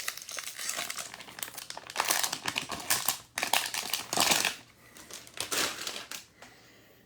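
Crinkling and tearing of foil wrappers as 2022 Topps Series 1 baseball card packs are ripped open and the cards pulled out, in irregular rustling spurts.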